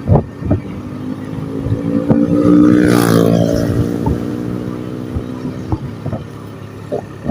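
A motor vehicle's engine passing close by, swelling to loudest about three seconds in and then fading away.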